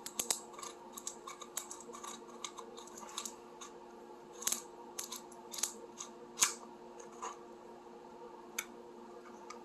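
Irregular small clicks and taps from hands handling the parking brake actuator's motor and parts, the loudest clustered between about four and six and a half seconds in, over a faint steady hum.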